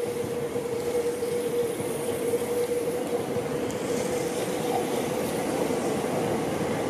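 Electric commuter train on the Seibu Ikebukuro Line running past on the track below, with a steady whine throughout, over the hiss of heavy rain.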